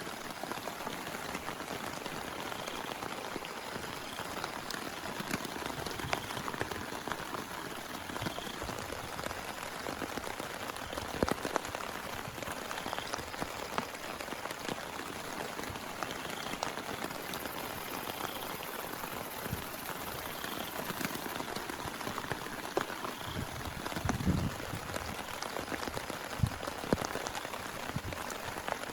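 Heavy rain falling steadily, with many individual drops ticking close by and a few louder drips striking about 11 and 24 seconds in.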